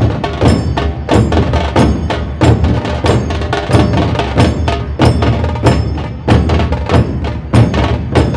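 A Maharashtrian dhol-tasha ensemble playing a fast, steady rhythm. Heavy bass dhol strokes sound under sharp, cracking tasha drum beats.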